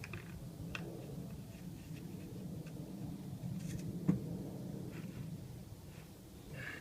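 Scattered small clicks and knocks from handling a chainsaw, over a steady low hum, with one sharper knock about four seconds in.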